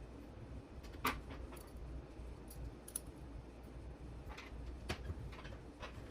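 Scattered light clicks and taps of small parts and tools being handled, one sharper click about a second in, over a steady low hum.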